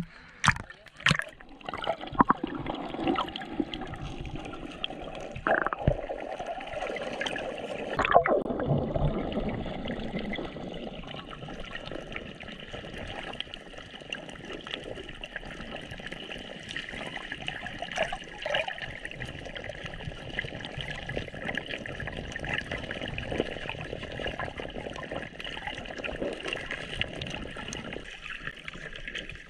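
Running water trickling steadily, with a few sharp knocks or splashes in the first couple of seconds and another about eight seconds in.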